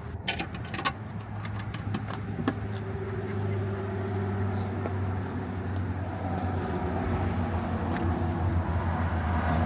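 Car engine idling with a steady low rumble, with a few sharp clicks and knocks in the first couple of seconds.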